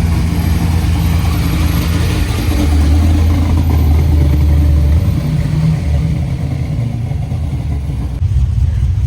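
A car engine running loud and steady at low revs with a deep drone, easing off about five seconds in.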